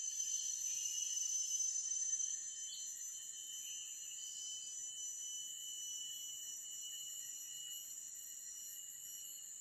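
Forest ambience: steady, high-pitched chirring of insects and calling birds, a little louder in the first couple of seconds, with a brief extra call a few seconds in.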